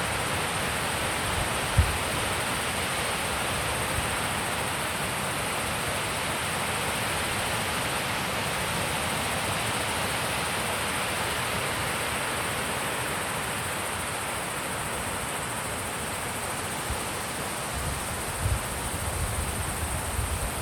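Wind blowing steadily with an even rushing hiss, with a sharp low buffet on the microphone about two seconds in and a run of low buffeting thumps near the end.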